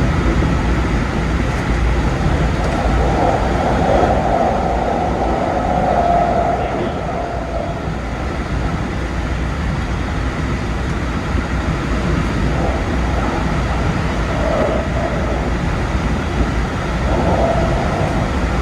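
Keikyu 2100 series electric train running at speed, heard from the driver's cab: a steady low rumble of wheels on rail, with a humming tone that swells for a few seconds in the first half and returns twice later.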